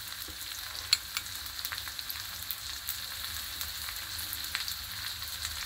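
Prawns, ridge gourd pieces and onions frying in oil in a non-stick pan: a steady, soft sizzle with a few faint pops.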